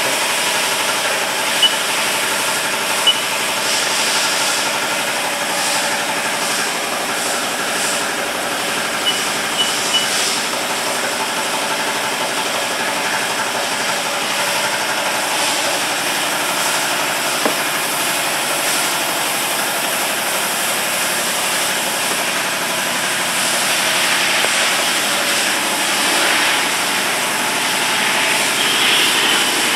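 Haas mini lathe running: a steady machine hum with hiss, and a few short sharp ticks in the first ten seconds.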